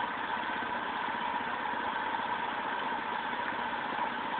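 Vauxhall Senator's C30SE 3.0-litre 24-valve straight-six engine idling steadily at about 560 rpm, fully warmed up after some 20 minutes' running.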